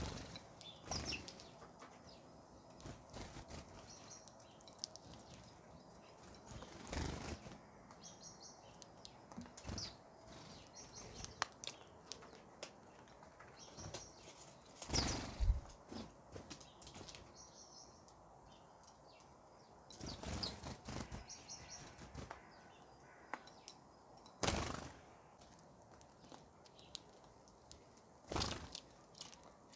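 Small birds chirping off and on in short high calls, broken by about six brief bursts of wing flapping; the loudest burst comes about halfway through.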